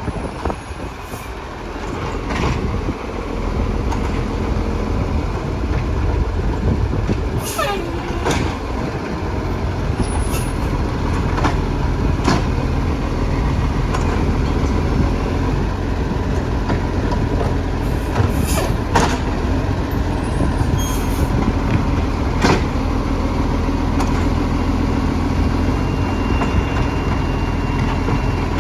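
Garbage truck engine running steadily and loudly, building up about two seconds in, with scattered sharp clanks and knocks.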